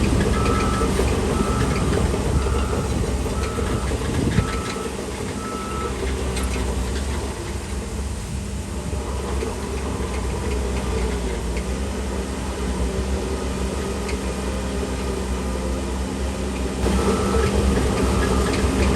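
Heavy diesel earthmoving machine running steadily with a reversing alarm beeping about twice a second. The beeping stops about four seconds in and starts again near the end.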